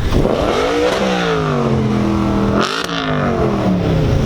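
Car engine revving hard as the car accelerates, its pitch sweeping up and then falling, with a short break about two-thirds of the way through before it pulls again.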